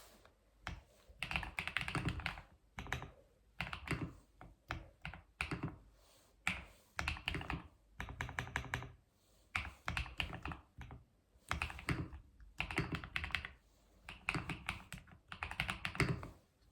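Typing on a keyboard: quick runs of key clacks, each lasting about a second, broken by brief pauses.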